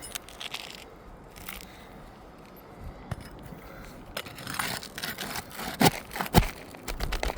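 A roof snake scraping under old three-tab asphalt shingles to pull roofing nails. The brittle shingle crackles, and from about halfway in there are irregular sharp knocks of the metal tool working the nails.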